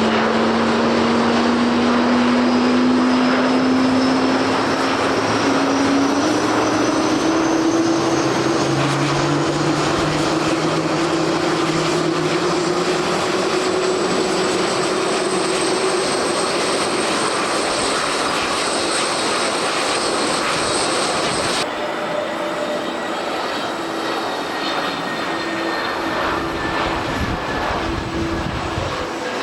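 Embraer E170 airliner's turbofan engines running up, a low hum and a high whine both climbing slowly in pitch over rain and wind noise. About two-thirds of the way in it cuts abruptly to another jet airliner's engines, quieter and steadier in pitch.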